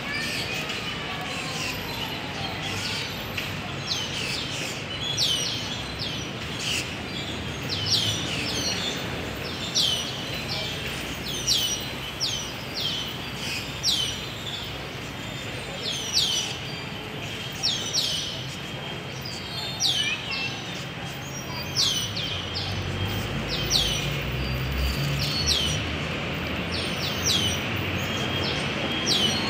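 A bird calling over and over with short, sharp chirps that drop in pitch, in quick runs every second or two, over steady outdoor background noise. A low rumble swells briefly about three-quarters of the way through.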